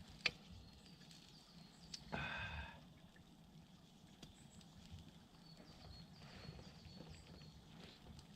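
Quiet outdoor ambience around an open campfire grill: a sharp click near the start, a short pitched sound lasting under a second about two seconds in, and faint high chirps later on.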